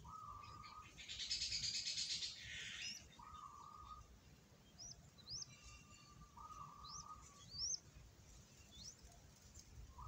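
Faint bird calls: a buzzy rattling call about a second in, a few short buzzy notes, and short high rising chirps in the second half.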